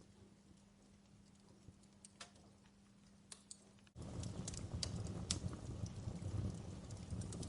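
Wood fire crackling in a fireplace with scattered sharp pops. About halfway through, the sound abruptly gets much louder, with a dense low rush of flame and more frequent pops, and a faint steady hum heard before that stops.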